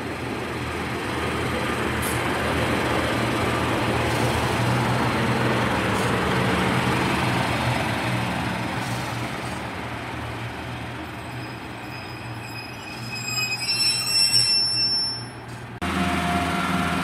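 Class 143 Pacer diesel railbus running into the platform, engine hum and rumble on the rails swelling as it passes close by. A shrill, several-toned squeal comes in as it slows near the end.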